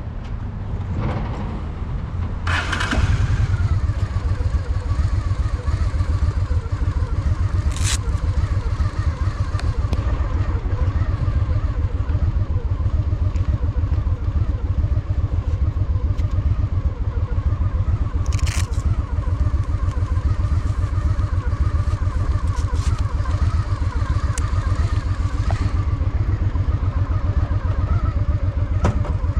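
Honda Shadow VT750's V-twin engine running as the motorcycle rides through city streets, a pulsing rumble that gets louder about three seconds in and then holds steady. A couple of brief sharp clicks are heard along the way.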